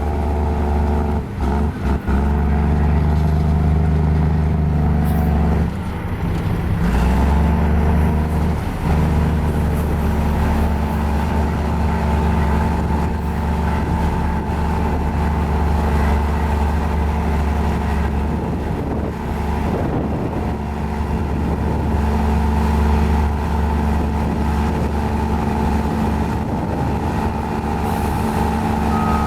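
Diesel engine of a mini Komatsu bulldozer running steadily under load, with a brief dip and a shift in engine note about six seconds in.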